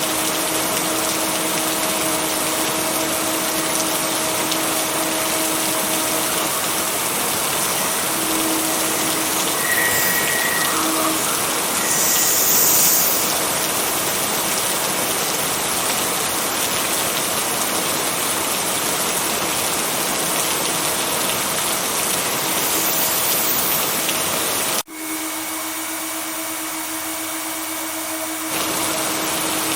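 Steady heavy rain, an even dense hiss, with a faint steady low tone under it. About 25 seconds in the sound cuts out for an instant and comes back thinner for a few seconds before returning to full.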